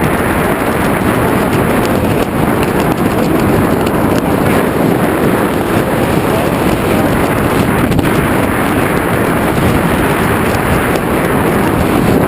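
Loud, steady wind rush buffeting the microphone during a tandem skydive freefall.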